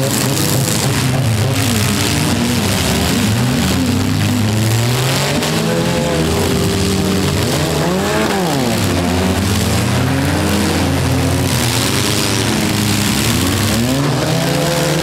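Several four-cylinder demolition derby cars' engines revving hard at once, their overlapping pitches climbing and falling as the drivers accelerate, back up and ram each other.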